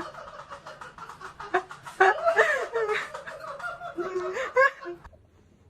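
People laughing, with giggles and bits of talk mixed in; it cuts off suddenly about five seconds in.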